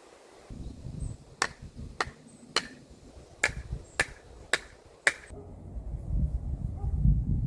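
A hammer striking wood in sharp taps, seven strikes at about two a second, stopping about five seconds in. After that, wind rumbles on the microphone.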